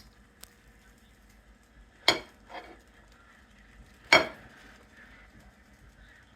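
Kitchen utensils knocking against cookware: a sharp clank about two seconds in followed by a softer one, then another sharp clank about two seconds later, over a faint steady background hiss.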